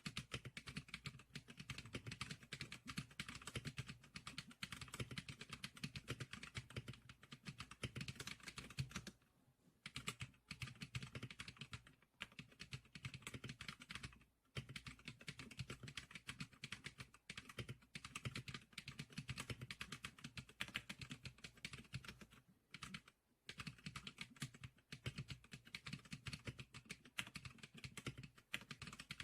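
Fast, continuous typing on an SPK100 computer keyboard, a dense run of key clicks with a few short pauses.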